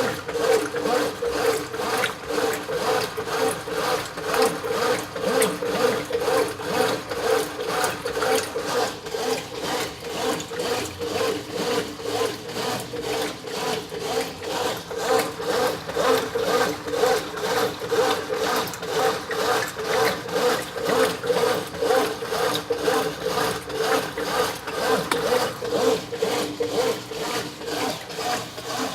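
Brastemp 9 kg top-loading washing machine agitating a full load in its wash cycle: a regular back-and-forth swishing and churning of water and clothes, about two strokes a second.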